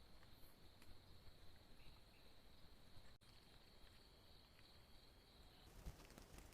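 Faint forest ambience with a steady high insect drone, which stops shortly before the end.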